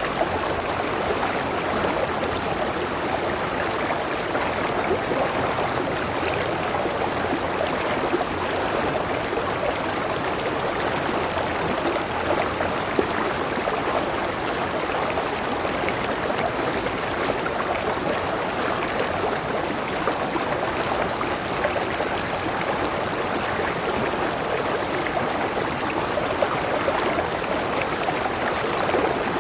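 A clear river running steadily: an unbroken, even rush of flowing water that holds the same level throughout.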